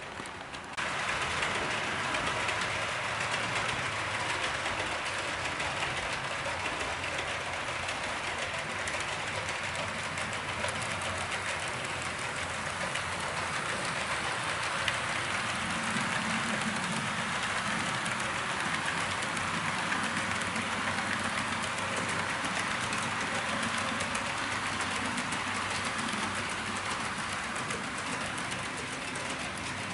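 Train running along the track: a steady rolling noise that starts suddenly about a second in and holds evenly throughout.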